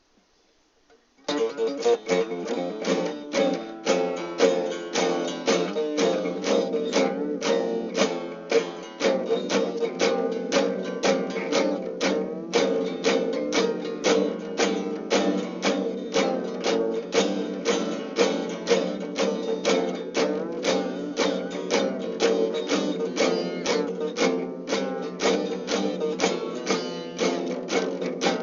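Guitar music with fast, even strumming, starting abruptly about a second in after near silence.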